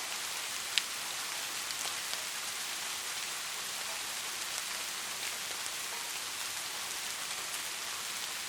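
Steady rainfall: an even hiss of rain with scattered single drops ticking through it, and one sharper tick just under a second in.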